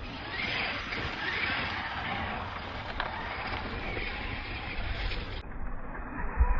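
Arma Mojave 6S RC truck driving on a dirt track, its brushless electric motor whining up and down in pitch a few times over a steady rush of tyre and dirt noise, with one sharp click about three seconds in.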